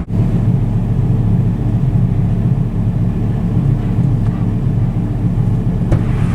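Turbocharged Dodge Ram SRT-10's 8.3-litre V10 engine running steadily with a low, even rumble.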